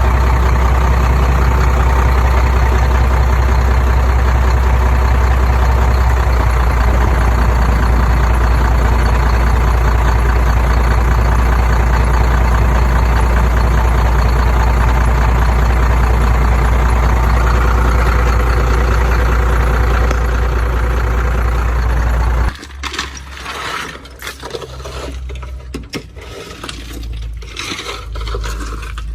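Heavy machine engine running steadily at a constant speed. About 22 seconds in it cuts off abruptly, giving way to quieter, irregular clinking and rattling.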